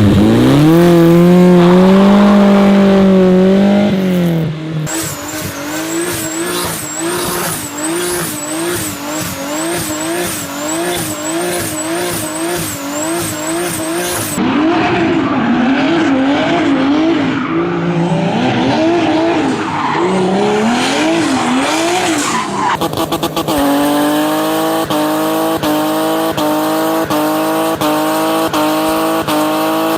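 BMW E30 M3's four-cylinder S14 engine held at high revs during burnouts, its pitch wavering up and down over and over as the rear tyres spin and squeal. The sound changes abruptly three times, about 4, 14 and 23 seconds in, to a different car, and near the end the engine holds a steady high pitch that slowly rises.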